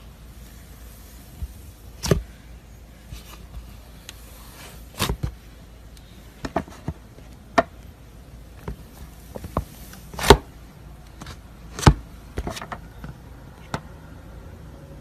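Butter slime being pressed and stretched by hand, giving scattered sharp pops and clicks at irregular intervals, the loudest about ten and twelve seconds in.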